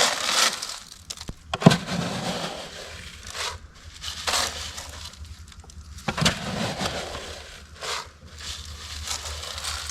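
Dry chicken feed being poured into feeders in several rattling rushes, with a sharp knock of the container about two seconds in and another near the middle.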